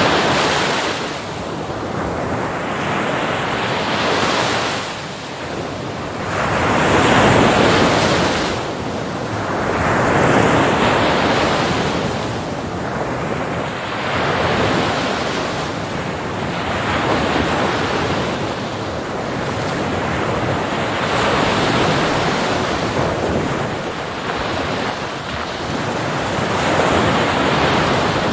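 Ocean waves breaking on a beach, the surf swelling and ebbing every few seconds in a continuous wash.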